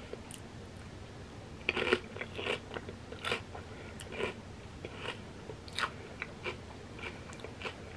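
Crunching bite into a fried wonton chip about two seconds in, followed by crisp chewing crunches, roughly two a second, until near the end.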